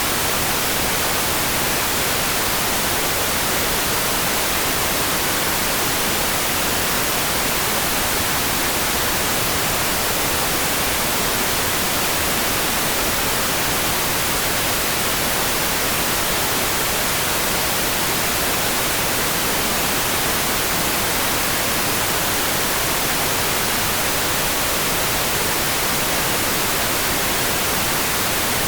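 Steady rain sound: an even, unbroken hiss, brightest in the high end, with no single drops, thunder or other events standing out.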